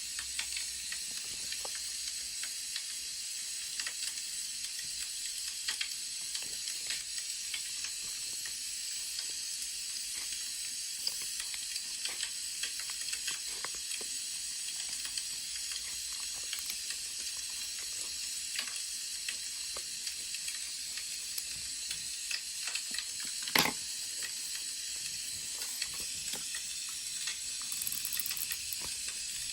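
Wood fire crackling: a steady hiss dotted with small irregular pops and snaps, with one louder snap late on.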